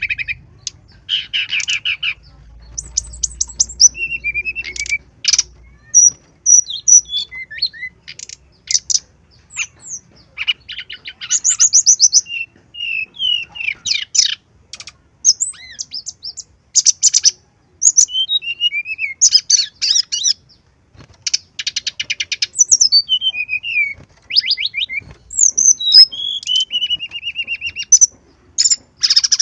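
Brown-chested jungle flycatcher singing a long, varied song. It runs in quick phrases of high rattling trills, slurred whistled notes and sharp chips, with short pauses between them.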